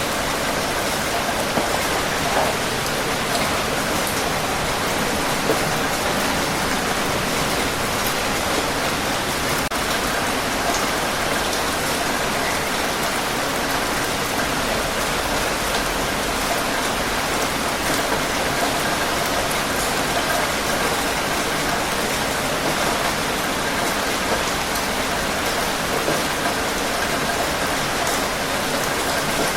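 Steady heavy rain falling and pattering on surfaces, an even hiss with scattered drop ticks and no change in level.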